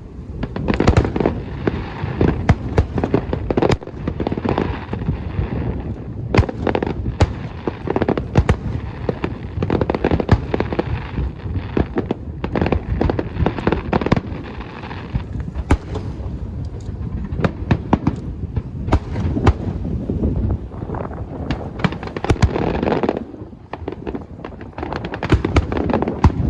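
Fireworks show: aerial shells bursting in rapid, overlapping bangs with a continuous low rumble. The barrage eases briefly near the end, then more bangs follow.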